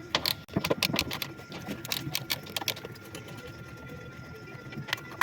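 Hand ratchet wrench clicking in quick, uneven runs while undoing the 13 mm bolts of a front strut's top mount, then falling quiet with a single click near the end.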